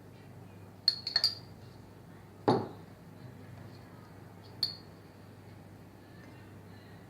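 Light clinks of kitchenware against a dish while powdered food colouring is added to milk: a quick cluster of small clinks about one second in, a duller knock about two and a half seconds in, and one more clink near five seconds, the clinks with a brief ring.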